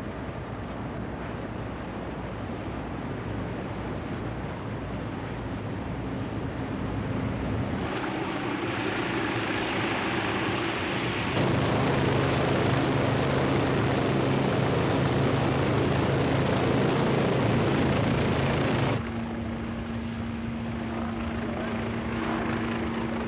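Westland Wasp helicopter in flight: a steady rotor and turbine noise. It steps up in loudness about 8 s in, and again about 11 s in with a high turbine whine added, then drops back abruptly about 19 s in.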